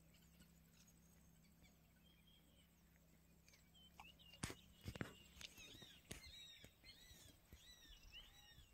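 Faint bird chirps: a quick series of short, arched calls repeated over the second half, with a couple of sharp clicks about halfway in.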